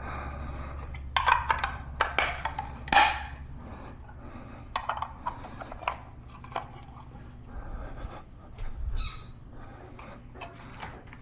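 Bird-cage trays and dishes being handled, with irregular clicks and knocks, the loudest cluster in the first few seconds, over a steady low hum.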